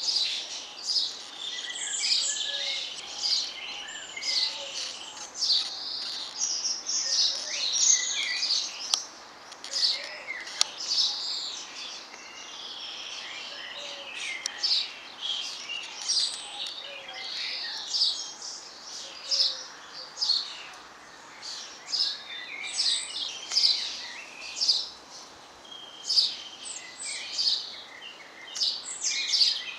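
Several small songbirds chirping and singing at once, a dense chorus of short, high calls and trills that overlap and keep coming.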